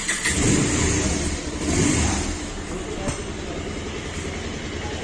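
Bajaj Pulsar 220F BS6's single-cylinder engine starting up through its stock exhaust. It is louder with a couple of rises in revs for the first two seconds, then settles to a steady, even idle.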